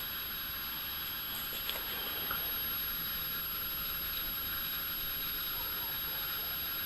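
Steady hiss-like background noise with a couple of faint clicks, about two seconds in.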